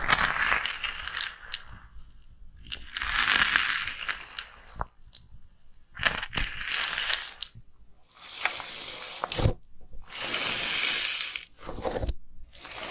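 Slime being squeezed and worked by hand close to the microphone, in repeated bursts of one to two seconds with brief pauses between them and small pops along the way.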